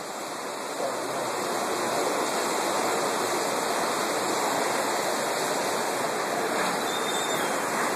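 Whitewater river rapids rushing in a steady, even roar of moving water, growing a little louder over the first couple of seconds.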